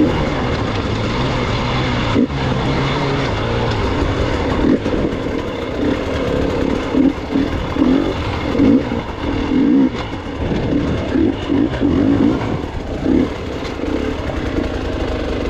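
Gas Gas EX 300 two-stroke single-cylinder enduro motorcycle engine being ridden, the revs rising and falling in short, irregular bursts as the throttle is worked, more often in the second half.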